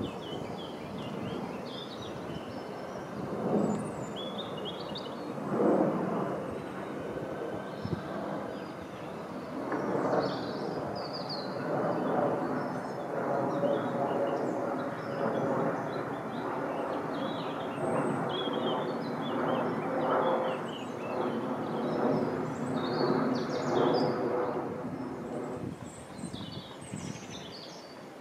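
Electric passenger train running through the junction: the rumble of wheels on rails, with irregular clacks as the wheels cross rail joints and points and a steady humming tone through the middle. Birds chirp throughout.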